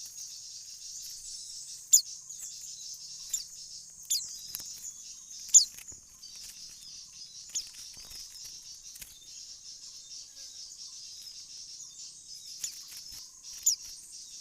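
A steady high-pitched insect drone with short, sharp, downward-sweeping bird chirps breaking through it several times, the loudest about two and five and a half seconds in.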